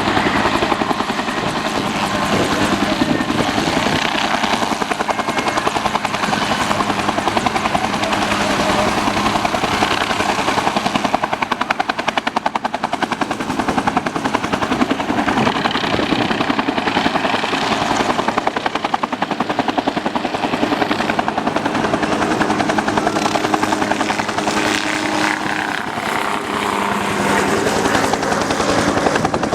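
Large transport helicopter flying a display pass, its rotor blades chopping in a fast, steady beat along with the turbine engines.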